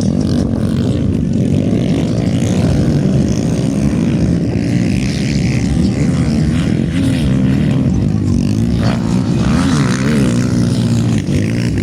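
Several motocross bike engines running and revving together, their pitches rising and falling and overlapping.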